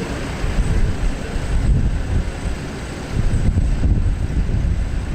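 Steady low rumble of engine noise with wind buffeting the microphone, and a faint high whine running through it.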